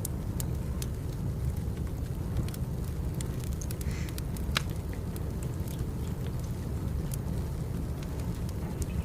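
Wood fire crackling: scattered sharp pops and snaps over a steady low rumble of burning firewood, with one louder crack about halfway through.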